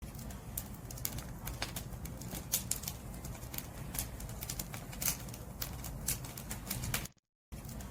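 Wood fire crackling, with many sharp irregular snaps and pops over a low steady rumble. The sound cuts out completely for a moment near the end.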